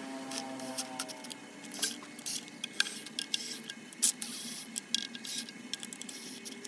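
Irregular small clicks and taps of tools and parts being handled during engine work, over a faint steady hum.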